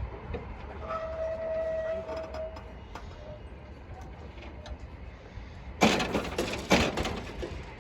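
Two loud fireworks bangs about a second apart near the end, each with a short crackling tail. Earlier there is a brief steady tone lasting about a second and a half.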